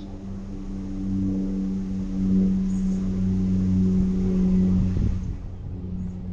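Motor vehicle engine running steadily with a hiss of road or wind noise. It grows louder about a second in and eases off after about five seconds.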